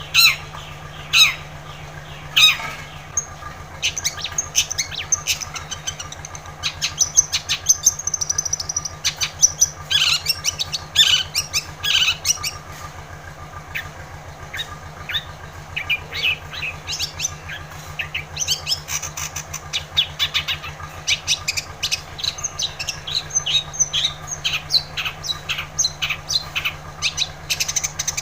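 Long-tailed shrike (cendet) singing persistently: a busy, chattering run of short sharp notes and quick trills, with a few loud harsh calls in the first couple of seconds. A steady low hum runs underneath.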